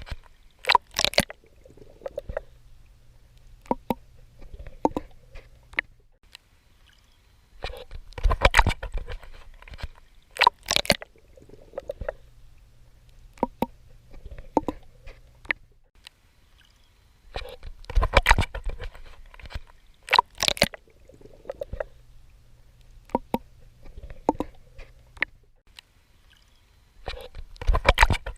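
Swimming in seawater: clusters of splashing water strokes come about every ten seconds. Between them are quieter stretches of gurgling water with a faint low hum and scattered small clicks.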